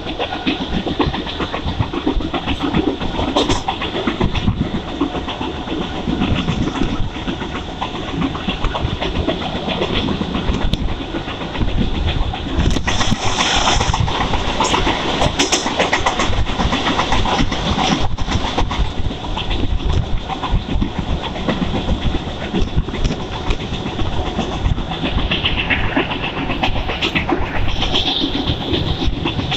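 Mumbai suburban local train running over the rails, heard from aboard, with steady wheel and track noise. About twelve seconds in, another local train passes close alongside and the noise grows louder and brighter for a few seconds.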